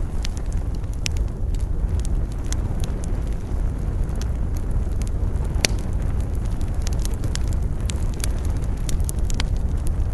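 Wood campfire burning, crackling with scattered sharp pops, one louder pop a little past halfway, over a steady low rumble of wind.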